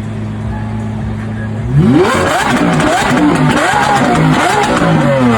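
Car engine idling steadily, then revved hard several times in quick succession, the pitch sweeping up and falling back with each blip.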